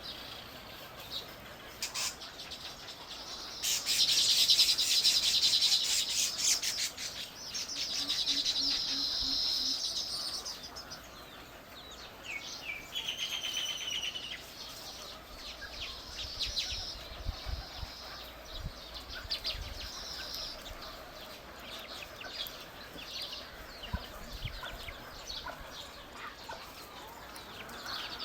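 Small birds chirping and calling. About four seconds in comes a loud, fast rattle lasting a few seconds, then a buzzy high call, with softer scattered chirps through the rest.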